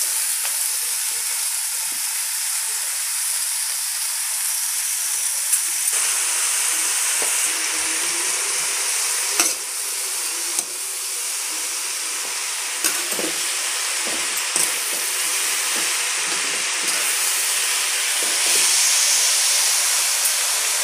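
Chopped amaranth greens (arai keerai) sizzling steadily in hot oil in a wide pan. The sizzle starts as the greens are tipped in, and a spatula stirring them gives a few light clicks against the pan now and then.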